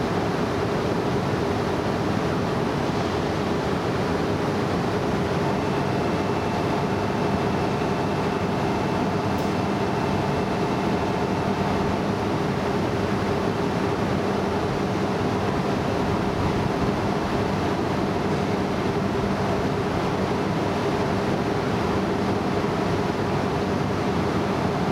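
Coupled E3 and E2 series Shinkansen train standing at the platform, its onboard equipment giving a steady hum of several held tones over a constant rush of noise. A faint high tone joins in about five seconds in and fades a few seconds later.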